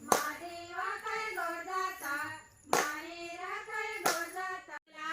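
High voices singing a folk song with held, gliding notes, with three sharp hand claps or percussion strikes.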